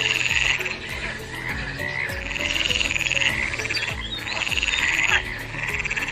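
Frogs calling in a spring chorus: repeated pulsed, rattling trills, each lasting about a second, following one another every second or two.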